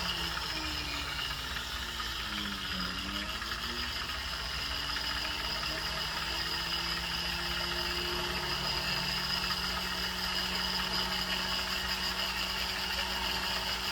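Small motor of a jeweler's rotary tool running steadily while it smooths and cleans up a freshly soldered chain link. Its pitch drops and climbs back up about three seconds in as the speed is changed, then it holds steady.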